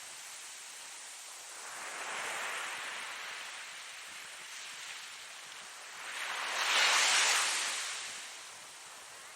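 Ocean surf: waves breaking and washing in, swelling twice, with a smaller surge about two seconds in and a louder one about seven seconds in, each fading away slowly.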